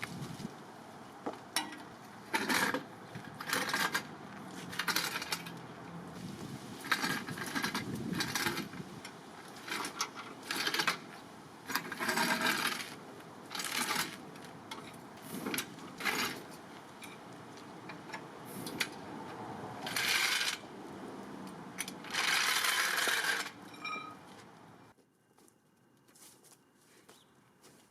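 Irregular series of short metallic clinks and clatters, like tools or small metal parts being handled and set down, over a steady background hum that falls away near the end.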